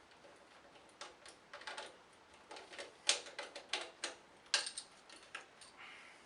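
Irregular clicks and knocks of hard objects being handled, in quick uneven runs, with the sharpest knocks about three and four and a half seconds in.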